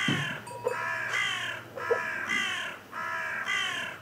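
A bird calling in a steady series of short cawing calls, about two a second, each lasting around half a second.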